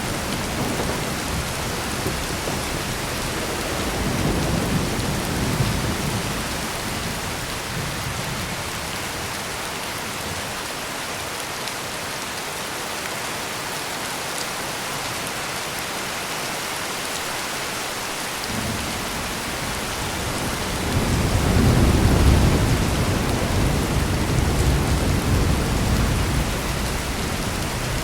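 Heavy steady rain with low rolling thunder: a rumble a few seconds in, a quieter stretch of rain alone through the middle, then a louder, longer roll of thunder starting about three quarters of the way through.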